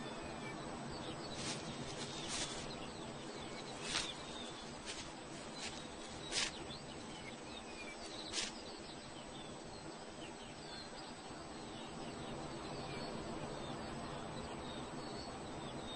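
Outdoor moorland ambience: a steady low hiss with faint, scattered chirps of small birds. About seven sharp clicks cut through it over the first half.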